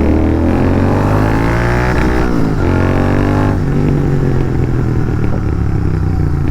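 Royal Enfield 650 parallel-twin motorcycle exhaust accelerating: the note rises, drops at a gear change about two seconds in, rises again, then settles to a steadier cruise after about three and a half seconds.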